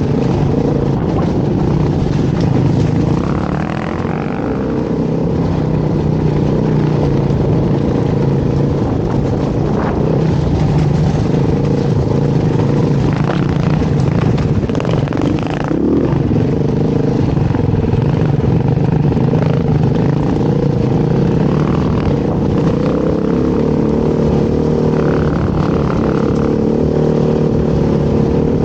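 Beta dirt bike engine running continuously while being ridden, its pitch rising and falling with the throttle. Occasional short knocks are heard over it.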